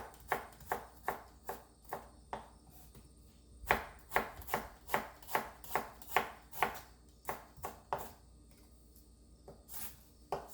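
Kitchen knife thinly slicing a shallot on a cutting board: a steady run of sharp taps, about three a second, that stops about eight seconds in, with a few faint taps near the end.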